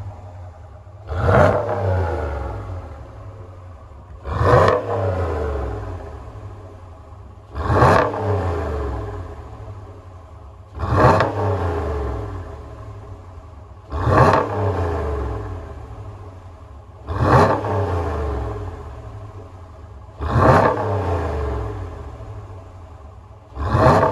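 Dodge Ram 1500 pickup with a Corsa performance exhaust, its engine blipped repeatedly at standstill: eight quick revs about three seconds apart, each climbing sharply and then falling slowly back toward idle.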